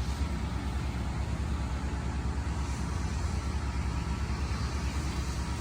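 Steady low engine rumble with a fast, even pulse, from motors idling close by.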